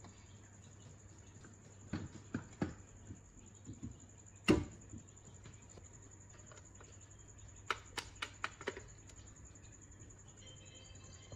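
Scattered sharp clicks and knocks over a faint steady hum: three taps about two seconds in, one louder knock near the middle, and a quick run of light ticks later on.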